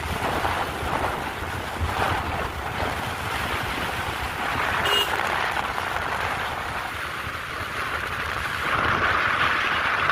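NS125 motorcycle on the move: engine and road noise under wind buffeting the microphone, with a brief high tone about halfway through.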